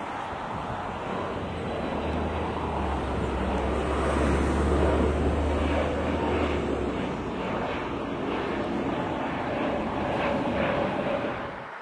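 An airplane passing over: a steady rushing rumble that grows to its loudest about four to five seconds in, then slowly fades.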